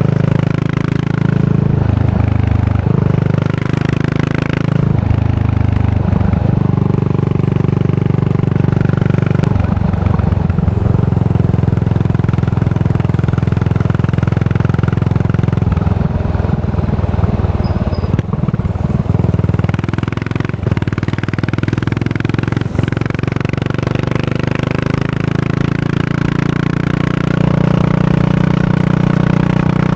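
Exhaust of a Yamaha SR400, a single-cylinder four-stroke, through a Goods tapered cone slip-on muffler, running on the road. The engine note drops and picks up again several times in the first ten seconds, then runs steadier with a few rougher stretches.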